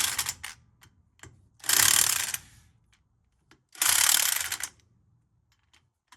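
Ratchet wrench clicking in short runs about two seconds apart as lug nuts are run down onto a wheel hub.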